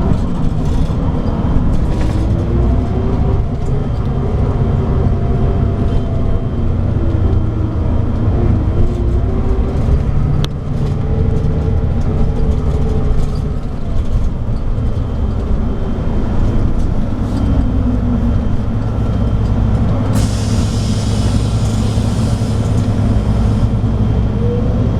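Scania DSC9 diesel engine of a 2007 Scania K340IB coach running under way, a steady low rumble whose pitch rises and falls with the revs. A steady hiss joins about twenty seconds in.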